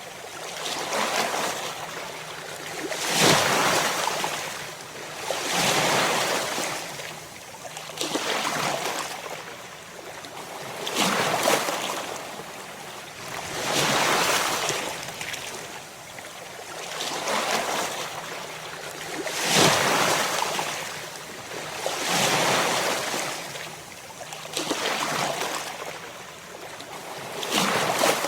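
Ocean surf: waves breaking and washing, in a hissing rush that swells and eases about every two to three seconds.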